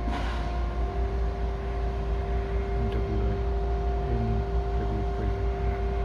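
Steady machinery hum at a demolition site: two constant tones over a low, continuous rumble, with faint distant voices about halfway through.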